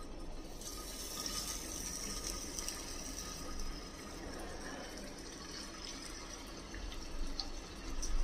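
Chicken-and-pea shami kabab patties sizzling as they are laid into a thin layer of hot oil in a frying pan for shallow frying. The hiss picks up about half a second in, as a patty goes into the oil, and then runs steadily.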